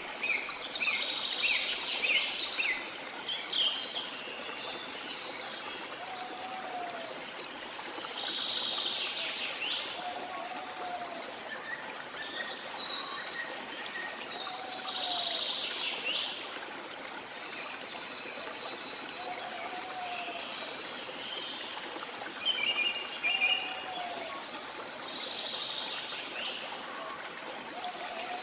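Steady rushing of a waterfall, with birds chirping and calling over it in clusters of high notes. A short, lower, arched call repeats about every three and a half seconds.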